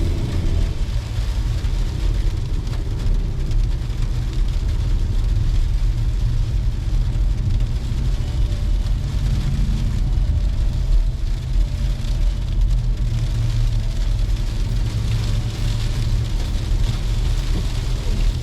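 Car driving: a steady low rumble of engine and tyres on the road.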